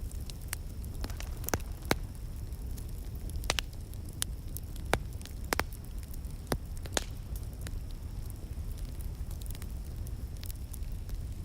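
Wood fire burning in a fireplace: a steady low rumble of flames with irregular sharp pops and crackles from the burning logs, a few louder snaps among them.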